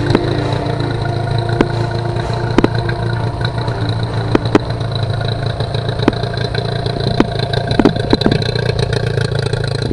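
Outboard motor running steadily, with a few sharp clicks or knocks scattered over it.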